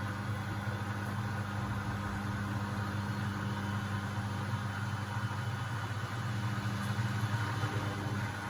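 Beko WMB71642W washing machine in its first intermediate spin, drum and motor running with a steady hum, getting a little louder about six seconds in.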